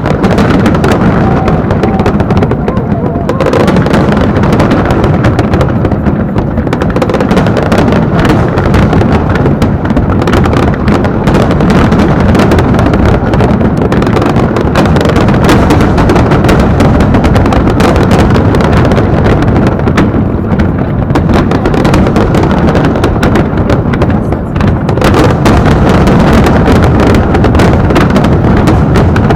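Fireworks going off in a dense, continuous barrage of overlapping bangs and crackles over a deep rumble, very loud throughout, easing only briefly a few times.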